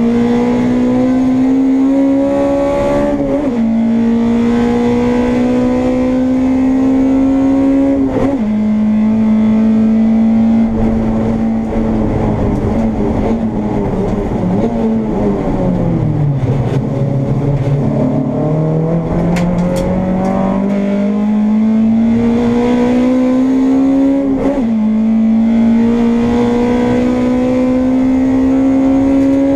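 Honda Integra race car's engine heard onboard under hard acceleration. Its note climbs steadily and drops sharply at each upshift, four times. In the middle the note sinks slowly to about half its pitch as the car slows, then climbs again.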